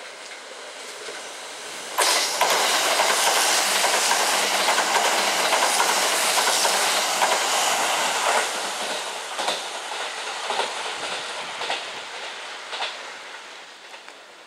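Kintetsu 22600 series electric limited-express train running close past, a loud rush of wheel and running noise with rapid clattering over the rails that starts abruptly about two seconds in. The noise fades gradually in the second half, broken by a few sharp clacks about a second apart as the last wheels cross a rail joint.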